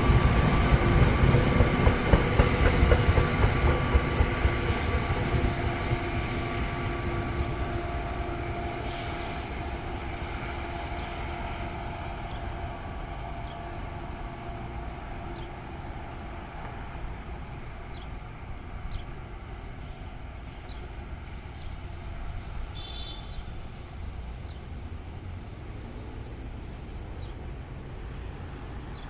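An NJ Transit passenger train passing and drawing away. Rumble and clatter of the wheels on the rails come with steady whining tones, loudest at first, then fade away over about ten seconds.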